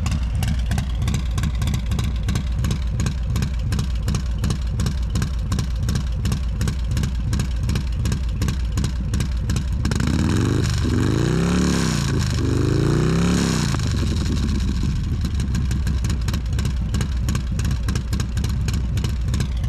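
Stage 2 Harley-Davidson Milwaukee-Eight 114 V-twin with an S&S 475c cam, heard close up at an aftermarket El Diablo Cobra exhaust. It idles with a fast, even pulse, is revved twice about halfway through, and settles back to idle.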